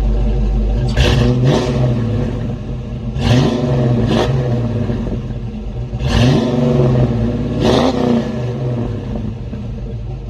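1987 Ford Mustang GT's 5.0-litre V8 idling through a freshly installed exhaust of BBK shorty headers, H-pipe and Flowmaster American Thunder mufflers, and blipped on the throttle about five times. Each rev rises and falls straight back to idle: two quick ones about a second in, then single revs spaced a few seconds apart.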